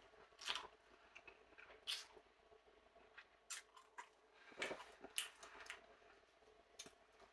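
Quiet eating sounds: wet squishes and chewing as a mouthful of birria ramen is eaten, in about ten short, scattered bursts.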